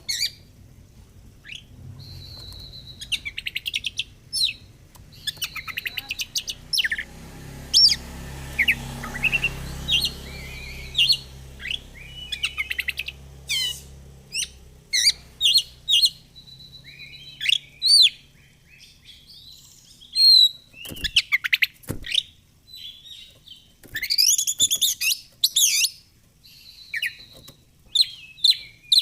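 Oriental magpie-robin (kacer) singing a long, varied song of loud whistles, rapid trills and sharp chirps, phrase after phrase with short gaps.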